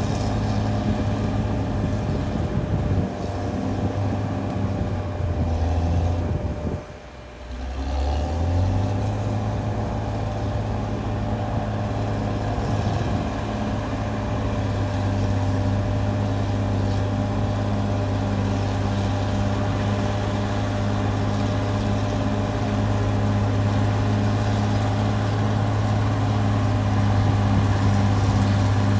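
Caterpillar D6R XL bulldozer's diesel engine running steadily as the machine works, a constant low drone. The sound drops out briefly about seven seconds in, then comes back slightly higher in pitch.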